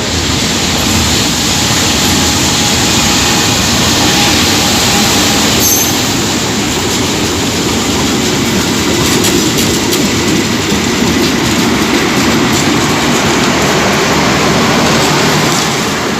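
Train passing close by: a loud, steady rumble and rattle of wheels on the rails, with some wheel squeal.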